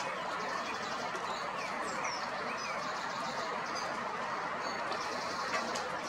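Birds calling in short high chirps and rapid twittering trills, a run near the start and another near the end, over a steady rushing background noise.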